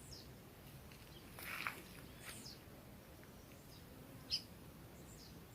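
Scattered wild bird calls: a few short, high, downward-sliding chirps, the loudest about four seconds in, and a harsher call about a second and a half in, over faint steady outdoor background noise.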